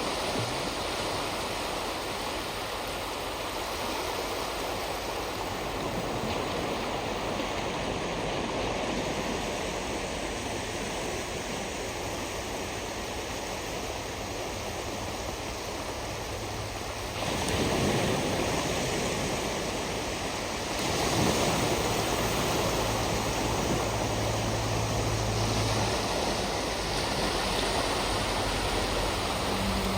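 Ocean surf washing on a shoreline, a steady rush with a louder wave breaking a little past halfway and another a few seconds later. A low steady hum runs under it in the second half.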